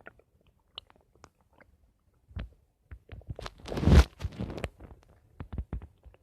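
A human stomach gurgling: scattered small pops and squelches, with a longer, louder gurgle about halfway through that lasts about a second and a half.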